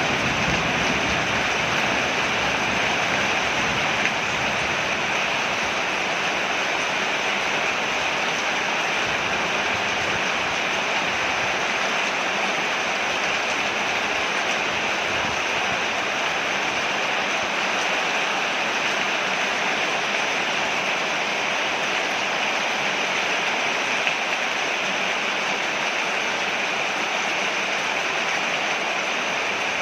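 Rain falling steadily on a porch: an even, unbroken hiss with no separate drops or pauses.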